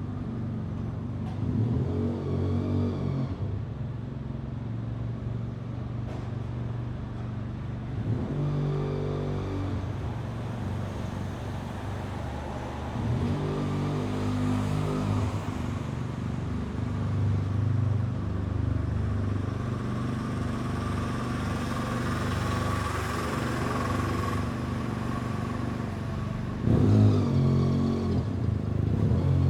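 City street traffic: cars and other motor vehicles passing one after another, engines running over a steady bed of road noise, with a louder vehicle passing near the end.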